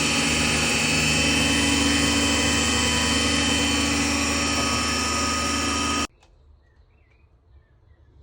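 Lathe running steadily at speed, a dense motor-and-spindle noise with several fixed tones. It cuts off abruptly about six seconds in, leaving only faint sounds.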